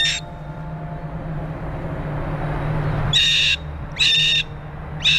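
Parrot screaming: loud, harsh, high calls, one just at the start, then a burst of three about a second apart from about three seconds in, the last one longer.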